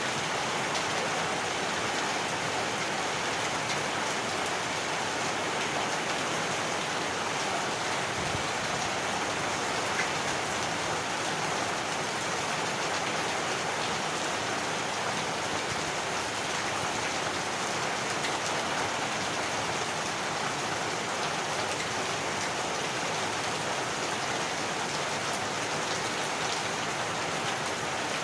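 Heavy rain falling steadily, a dense even patter on surfaces.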